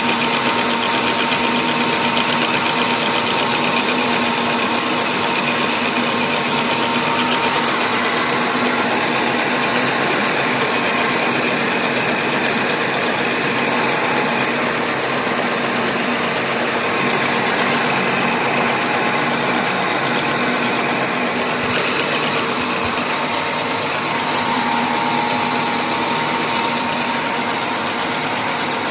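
A machine tool running steadily, with a constant mechanical hum and a high whine above it.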